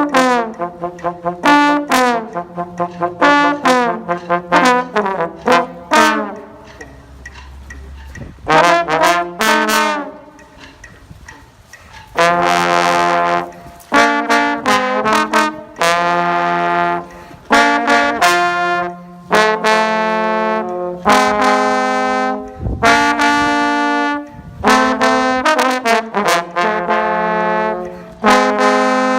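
Brass instruments playing an upbeat tune. It opens with a quick string of short notes for about six seconds, drops quiet for several seconds, then goes on in longer held notes in a steady rhythm.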